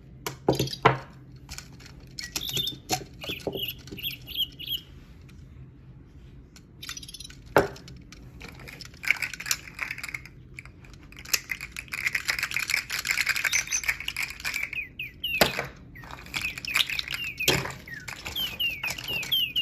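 A small bird chirping in quick runs of high rising-and-falling notes, with a stretch of dense twittering in the middle. Sharp clicks and knocks break in now and then, the loudest a little past a third of the way in and twice near the end.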